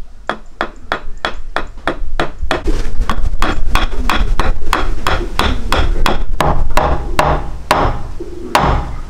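A steady run of sharp knocks, like blows struck over and over, about three a second. They grow louder about two and a half seconds in.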